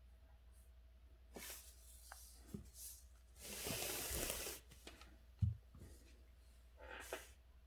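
Calligraphy brush and paper at work: a few soft scratchy strokes, a longer paper rustle lasting about a second near the middle, and a sharp knock a little over five seconds in, over a steady low hum.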